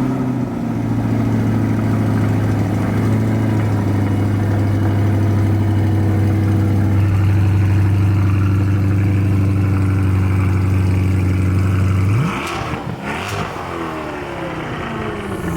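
Chevrolet Corvette C8 Stingray's 6.2-litre LT2 V8 running at a steady, raised cold-start idle, then revved up and back down once near the end.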